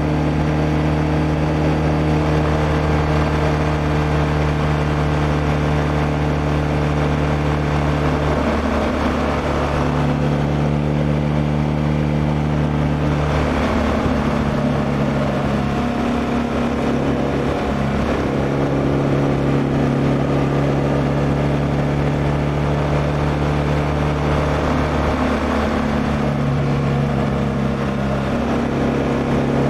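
Liquid-cooled boxer twin of a 2016 BMW R1200R running steadily on the road. The engine note shifts in small steps several times as the throttle or gear changes.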